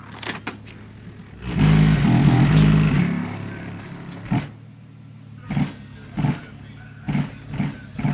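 2006 Nissan Maxima's 3.5-litre V6 through an aftermarket cat-back exhaust, revved once for about a second and a half, then settling back. About five seconds in, bass-heavy music starts thumping at a steady beat from the car's stereo.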